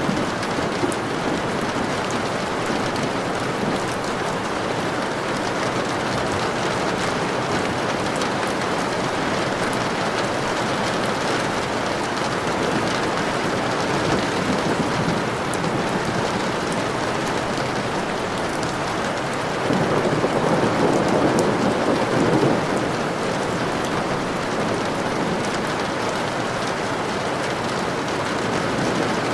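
Steady rain ambience, with a low rumble of thunder swelling for a few seconds about twenty seconds in.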